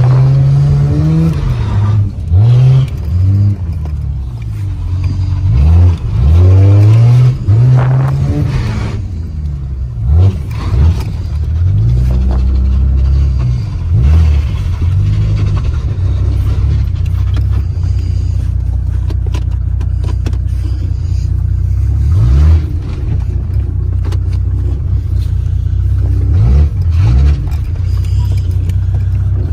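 Mercedes-Benz E300's OM606 straight-six turbo diesel heard from inside the cabin, revved up and down in many short blips, with spells of steadier low-rev running between them.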